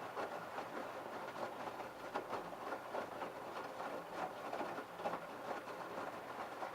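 LG F1222TD direct-drive front-loading washing machine turning its drum with the wet load during the prewash: irregular sloshing and soft knocks over a faint low motor hum.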